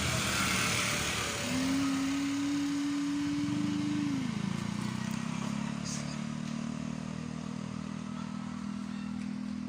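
Motorcycle engine running at a steady pitch that drops about four seconds in, then carries on at a lower, steady note, fading slowly.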